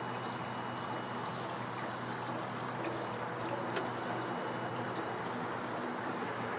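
Steady, even buzzing hum of a mass of honeybees at an open top-bar hive, a colony disturbed after its comb collapsed into the hive.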